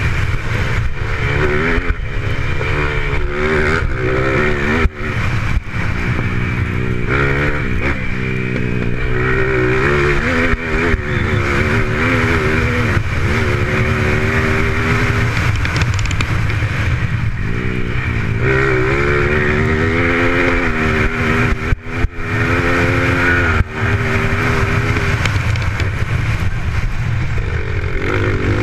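Motocross bike engines racing on a dirt track, the pitch climbing and dropping again and again as the riders open the throttle, shift and back off into the turns.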